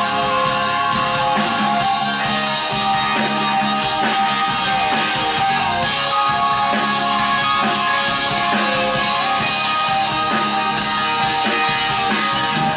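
A prog-rock band playing live in an instrumental passage with no vocals: electric guitar over a drum kit, loud and continuous.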